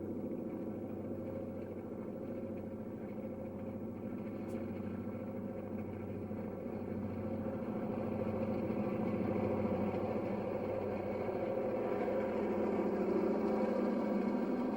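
Diesel freight locomotives running with a steady droning engine note, growing a little louder in the second half.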